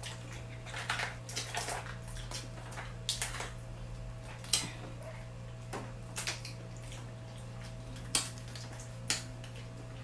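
Crab shells being cracked and picked apart while eating, with scattered sharp clicks and cracks at irregular intervals. A steady low hum runs underneath.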